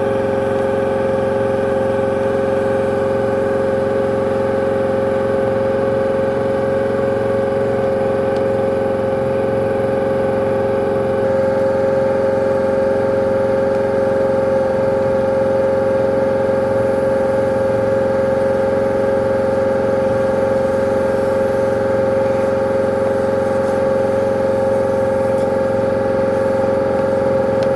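High-pressure drain jetting machine running steadily while it jets water into a blocked drain line. It gets slightly louder about eleven seconds in.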